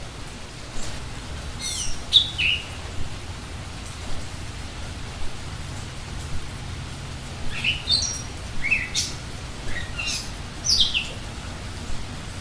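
A wild bird calling: a short group of quick, high, falling notes about two seconds in, then a longer run of them in the second half, over a steady background hiss.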